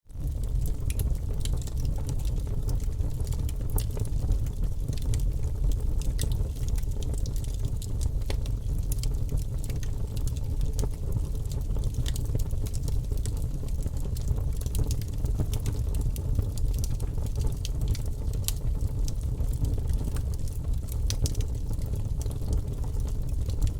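Fire burning in an open fireplace: a steady low rumble of flames with frequent small, sharp crackles throughout.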